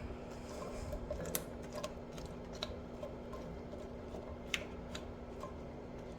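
Light, scattered clicks and ticks from cooking, at irregular intervals, over a steady low hum. The sharpest click comes about four and a half seconds in.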